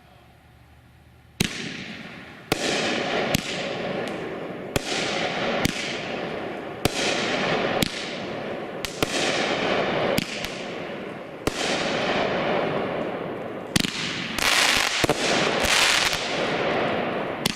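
A Shogun 'We Mean Business' consumer fireworks cake firing. After a quiet second and a half, sharp reports come about once a second, each trailing off in a fading crackle. The shots come thicker and faster near the end.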